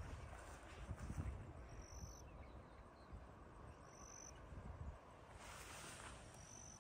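Quiet outdoor ambience with wind rumbling on the microphone. A bird gives a short, high whistled note three times, about two seconds apart.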